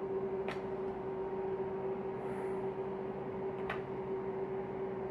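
Steady electric hum of a refrigerator-freezer running, with two faint clicks, one about half a second in and one a little past three and a half seconds.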